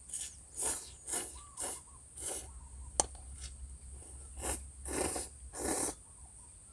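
A person slurping instant noodles: a run of short, airy slurps about half a second apart, pausing mid-way and then resuming, with a single sharp click about three seconds in.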